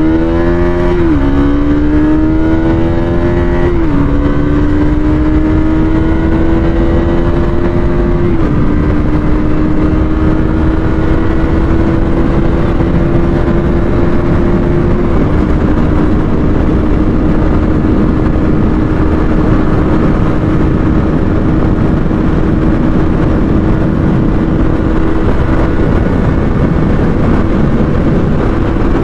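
Bajaj Pulsar NS200's single-cylinder engine accelerating hard up through the gears in a top-speed run. The pitch climbs in each gear and drops at every upshift, the gears lasting longer each time, and it holds nearly level in top gear for the second half. Heavy wind rush lies under it.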